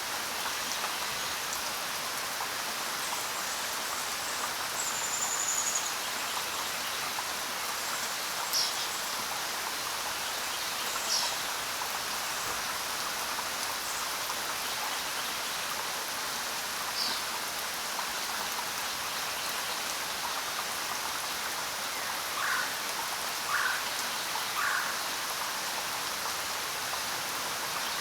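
Steady rain falling on the ground, an even patter of drops. A few short, separate higher sounds stand out over it, three of them close together near the end.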